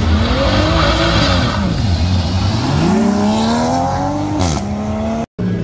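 Sports car engine revving hard under acceleration. It climbs in pitch twice, dropping back after each climb as it shifts up. A sharp crack comes about four and a half seconds in.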